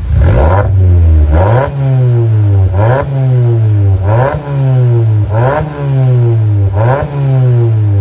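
Abarth 595 Turismo's 1.4 T-Jet turbocharged four-cylinder engine revved in about seven quick throttle blips, each rising sharply and sinking slowly back before the next. The engine is burning oil and blowing blue smoke: a clogged oil filter has damaged its cylinder head and piston rings.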